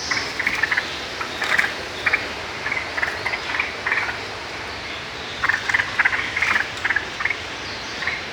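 Straw-headed bulbul (cucak rowo) singing in full, vigorous 'amprah' song: clusters of short, loud phrases follow one another over a steady background hiss.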